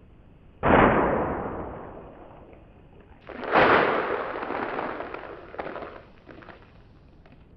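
Two deep, slowed-down crunching impacts, one about half a second in and one about three seconds in, each fading over a couple of seconds; the second trails off in scattered crackles. The sound is a katana blade cutting through packaged snacks, played back in slow motion.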